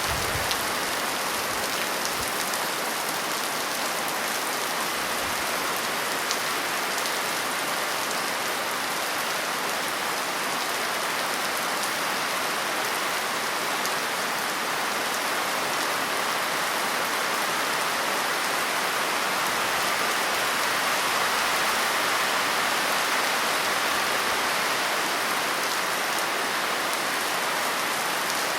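Steady rain falling on a surface, a constant even hiss with faint scattered drop ticks.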